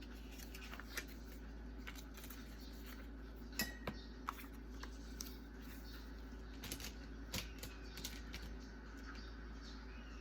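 Small irregular clicks and taps of a pen and stationery handled on a desk during study, over a steady low background; the sharpest taps come about three and a half to four and a half seconds in.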